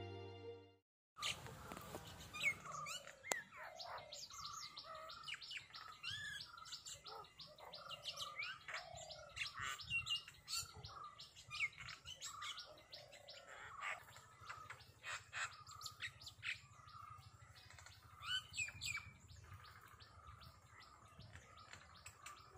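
Small birds chirping and calling, many short separate chirps at a faint level. The chirping starts about a second in, after a lingering musical note dies away.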